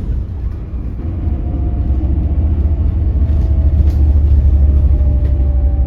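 Hydrogen fuel-cell electric bus under way, heard in the cabin: a low rumble that grows louder from about a second in, with a faint whine from the drive motor above it.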